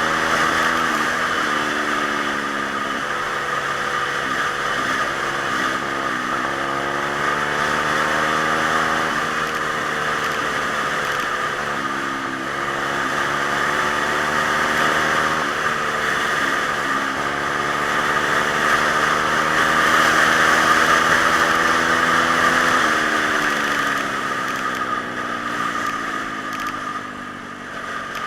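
Small single-cylinder pit bike engine being ridden, its revs climbing and dropping again and again as the rider works the throttle and gears, over a steady rushing noise. The engine note eases off near the end.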